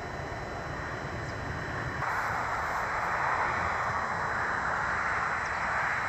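Background road traffic: a steady rush of passing vehicles and tyre noise, growing louder about two seconds in as a vehicle draws nearer.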